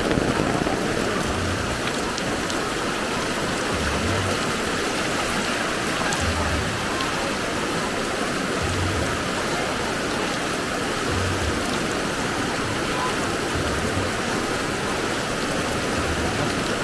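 Heavy rain falling and fast floodwater flowing, a steady, even rushing hiss. A soft low thud recurs about every two and a half seconds.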